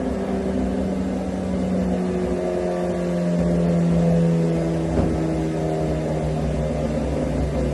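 Kawasaki Ninja ZX-10R inline-four engine running at a steady, nearly constant engine speed, briefly swelling louder around the middle. A single short click about five seconds in.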